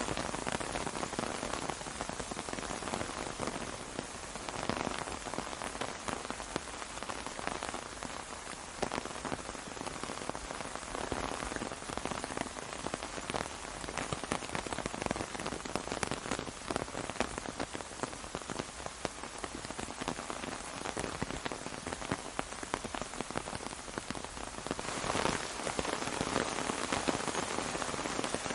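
Steady rain falling on an umbrella, a dense hiss of many separate drop hits. It grows heavier for a moment a few seconds in and again near the end.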